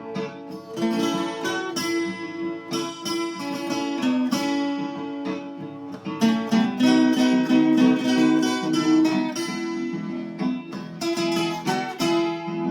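Viola caipira, the Brazilian ten-string folk guitar, playing a hymn melody in plucked notes over chords.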